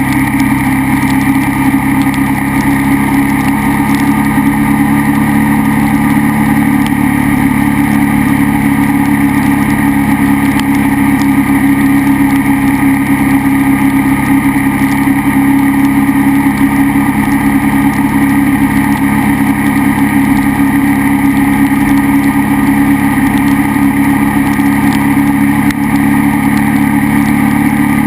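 KTM 990 SMR's V-twin engine running at a steady, even speed under way, with little change in pitch.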